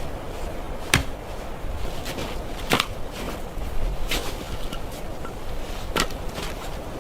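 Four sharp knocks spaced a second or two apart over a steady background hiss.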